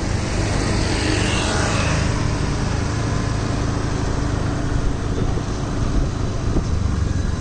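A motor vehicle engine running steadily, a low hum over street noise.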